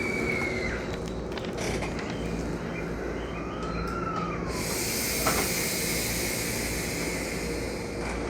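Electric train standing at a platform, its equipment giving a steady hum, with two brief high squeals. About halfway through, a hiss of compressed air starts and runs on, with a single metallic clunk just after it begins.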